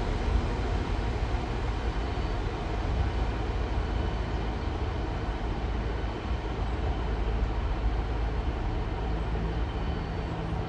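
Train running at a station platform: a steady low rumble with a faint hum over it.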